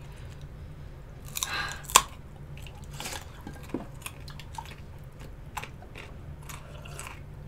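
A person chewing and crunching food, with scattered short crunches and clicks and one sharp, loud click about two seconds in.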